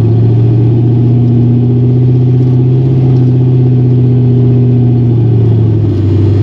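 LS-swapped 1955 Chevy 210 wagon's V8 engine pulling under way. The engine note rises slightly about a second and a half in, holds, and eases off about five seconds in.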